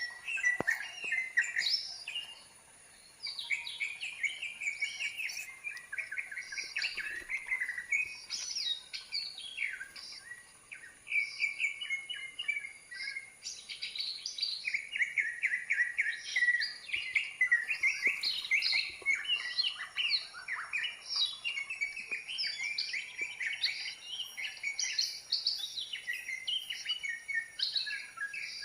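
Green leafbird (cucak ijo) song: rapid, varied chirps and twittering phrases, nearly continuous, with a short pause about two to three seconds in.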